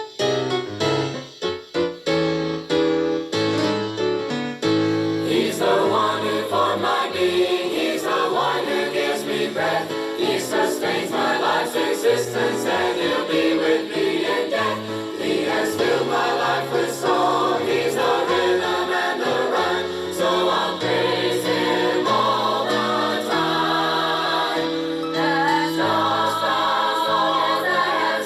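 A gospel choir singing with piano accompaniment; the first few seconds are piano chords alone before the voices come in.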